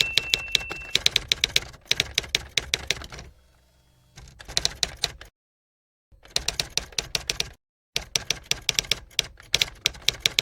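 Rapid typewriter-style key clicks in several bursts, separated by short gaps of dead silence.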